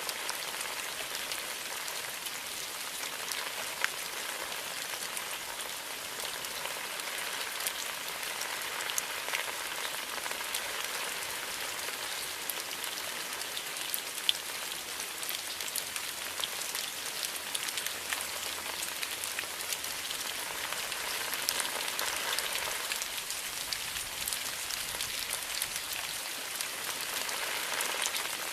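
Steady rain falling on bamboo foliage, an even patter with many small, sharp drop hits.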